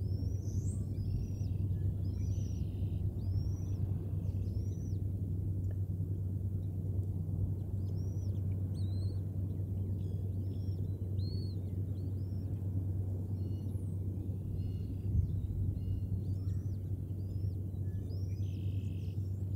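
Birds chirping, short high arched calls coming about once a second, over a steady low hum.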